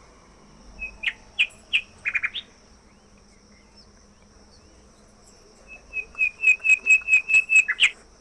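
Songbird calling: a few sharp notes about a second in, then near the end a quick run of about a dozen repeated notes ending in a falling note, over a steady high-pitched drone.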